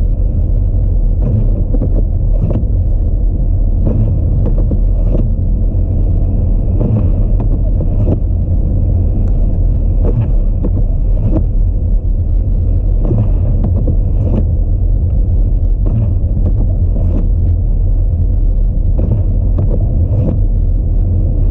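Audi A4 driving on a snowy road: a steady low rumble of tyre, road and engine noise, with faint scattered clicks at irregular intervals.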